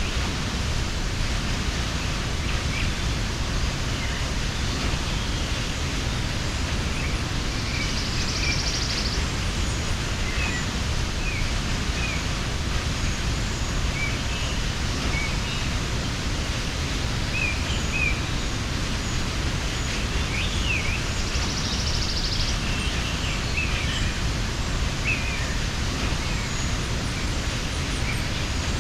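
Steady rushing of a mountain waterfall, with small birds chirping briefly and sparsely over it and a short buzzy call heard twice.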